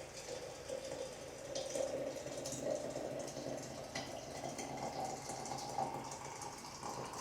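Water running into a container, its note rising slowly as the container fills.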